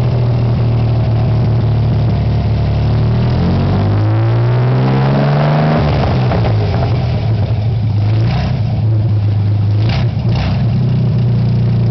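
Mercruiser 4.3 V6 marine engine running, revved up briefly about four seconds in and falling back to a steady idle about two seconds later. Two short sharp sounds come near the end.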